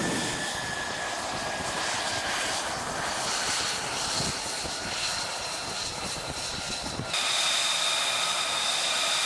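F-35C fighter jet engine running: a steady jet rush with a high whine that falls slowly in pitch over the first few seconds. About seven seconds in the sound changes abruptly to a steadier, higher-pitched jet whine.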